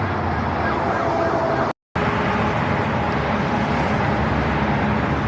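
Steady traffic noise with a running vehicle engine, and a few brief falling whistle-like glides in the first second or so. The sound cuts out completely for a moment about two seconds in.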